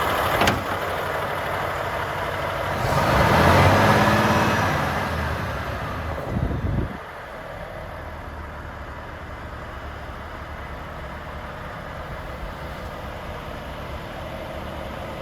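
The 2018 Volvo FH 500 tractor unit's 13-litre diesel engine idling steadily. It swells louder for a couple of seconds early on, with a short knock about six and a half seconds in, and then settles to a quieter, even idle.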